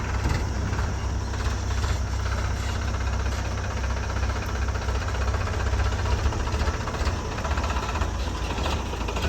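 Heavy diesel engine running steadily with a deep rumble, with light clatter over it.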